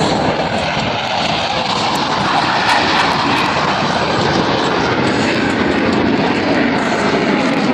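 Blue Angels F/A-18 jets flying over, a loud continuous jet engine noise with no break.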